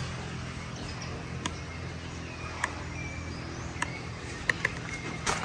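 Outdoor ambience: a steady low hum with a few short bird chirps in the second half and several sharp clicks.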